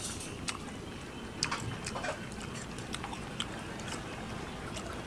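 A person eating curried goat meat: chewing, with scattered small clicks from the mouth.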